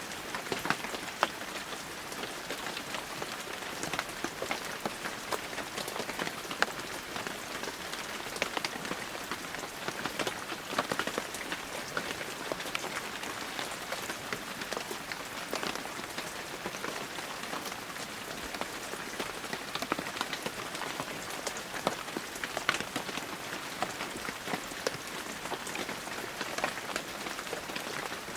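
Heavy rain falling steadily, a dense hiss of rain with many sharp individual drops pattering on surfaces.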